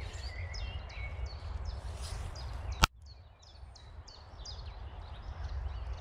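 Small birds chirping, short high chirps two or three a second, over a low steady rumble. A single sharp click sounds about halfway through.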